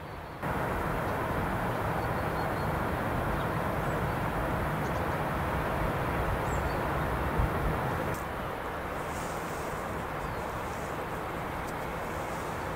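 Train running on the rails: a steady rumble and rush that starts abruptly about half a second in. There is a short sharp clank about seven seconds in, and the sound eases slightly soon after.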